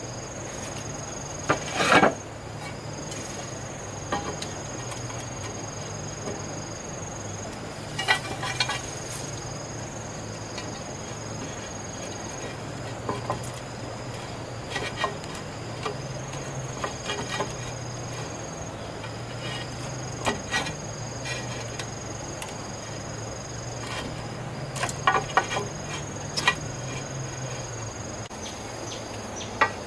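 Insects trilling in two steady high tones that stop and start every few seconds, over a low steady hum, with short knocks and clatter breaking in every few seconds, the loudest about two seconds in.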